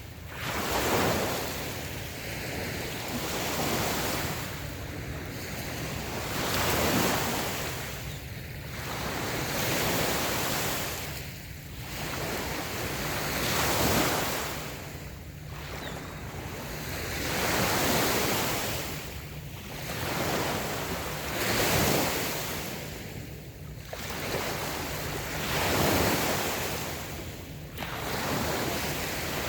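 Small waves breaking and washing up onto a sandy beach, the rush of surf swelling and fading about every three to four seconds.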